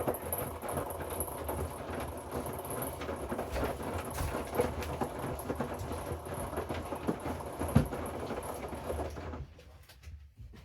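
Hoover inverter washing machine drum turning the wash, a steady rumble with a high motor whine and many small clicks, which stops suddenly about nine seconds in as the drum pauses.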